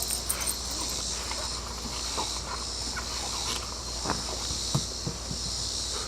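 Steady high-pitched insect chirring, with a few faint soft taps scattered through.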